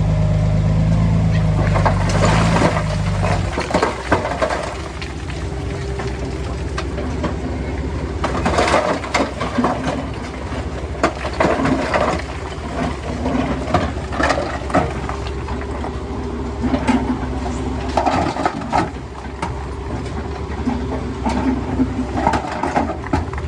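Heavy diesel construction machinery running: a loud low engine drone drops off about three and a half seconds in, then the machine keeps running more quietly under a scatter of sharp knocks and clanks.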